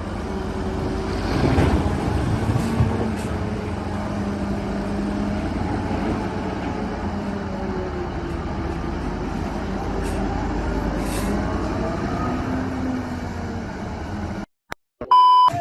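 Vehicle engine and road rumble running steadily, with a low hum that slowly drifts in pitch and a couple of knocks a couple of seconds in. It cuts off near the end and is followed by a short electronic beep.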